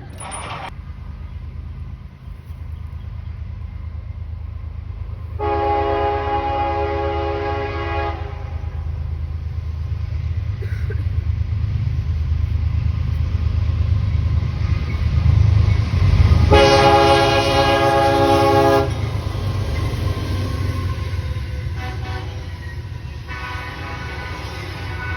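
Train horn sounding the long, long, short, long pattern, each blast a multi-note chord, over the low rumble of the approaching locomotive and train, which grows louder toward the second blast.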